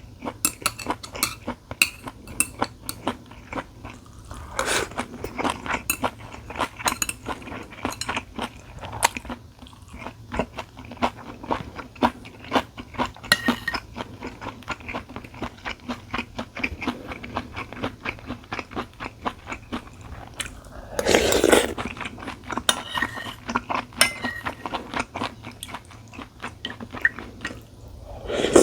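Close-miked eating of tteokguk and japchae: chewing with a dense run of small clicks. One louder, noisier sound about two-thirds of the way in lasts about a second.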